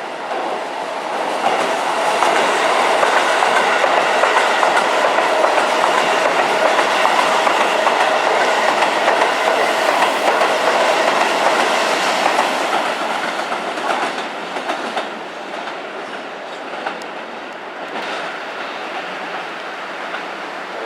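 Keihan 3000-series electric train passing, its wheels clattering over rail joints. The sound builds about a second in, stays loud for some ten seconds, then dies away with a few single clacks.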